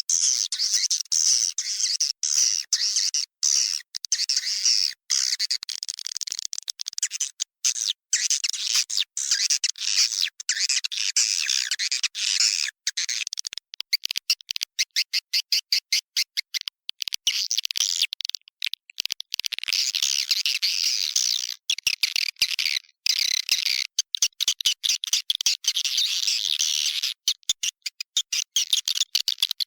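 Edible-nest swiftlets twittering inside a swiftlet house: dense, high-pitched chirps and rapid clicking trills with short breaks, a lure call recording used to draw swiftlets into a nesting house.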